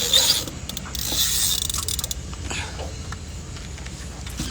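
Fishing reel working a hooked catfish, with mechanical clicking and rasping from the reel. There are two hissy bursts, one at the start and a longer one about a second in.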